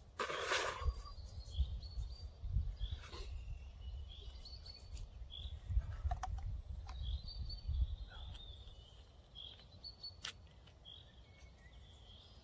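A woodland bird singing short chirping notes again and again over a low, uneven rumble of wind on the microphone. A brief rushing noise comes in the first second, and a few light clicks follow later.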